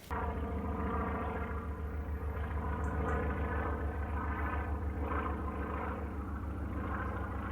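An engine running steadily, a low pitched drone with an even fast throb underneath, starting abruptly.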